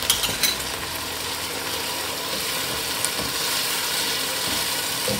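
Onion-tomato masala with a spoonful of yogurt just added, sizzling in hot oil in a pot as it is stirred with a wooden spatula: a steady frying hiss, with a couple of light knocks of the spatula near the start.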